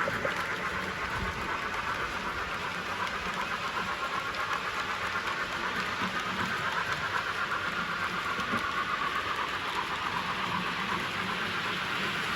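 Model train running on layout track, a steady hiss-like running noise with a faint regular pulse.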